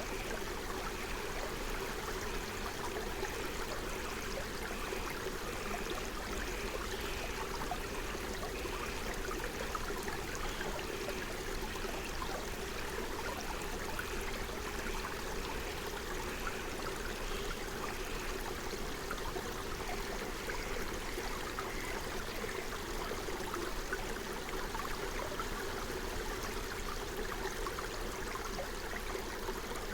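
Forest stream babbling and flowing steadily over stones. A bird repeats a short high call roughly one and a half times a second through the first half, fading out about two-thirds of the way in.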